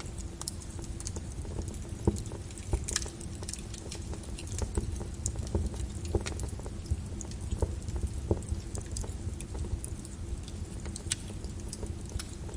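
Volcanic lava crackling and popping: irregular sharp cracks and ticks, several a second, over a steady low rumble.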